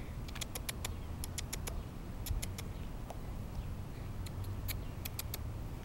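A squirrel gnawing on a piece of fried chicken: short, irregular crunchy clicks, about twenty over the span, over a low steady background rumble.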